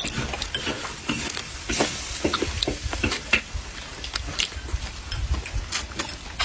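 Close-up eating sounds: wet chewing, lip smacks and small crackling clicks, irregular and continuous.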